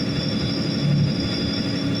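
Boat engine running steadily: a constant low drone with a steady high-pitched whine over it.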